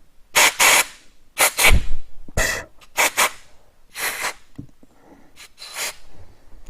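Short hissing blasts from a compressed-air blow gun, about ten of them, mostly in quick pairs, blowing out around the piston seal of a front brake caliper.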